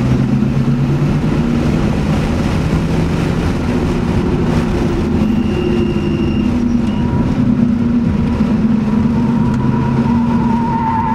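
Audi S4's engine heard from inside the cabin during hard track driving, its note stepping up and down with throttle and gear changes. Near the end a wavering tyre squeal comes in as the car corners.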